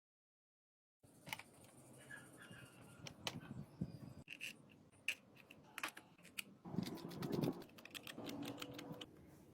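Irregular light clicks and taps, as of small hard parts being handled, starting after a second of dead silence, with a denser clatter about seven seconds in.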